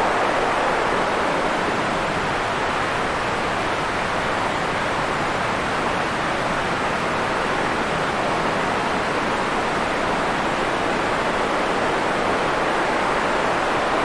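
Steady white noise: an even, unchanging hiss, fullest in the middle range and softer in the highs.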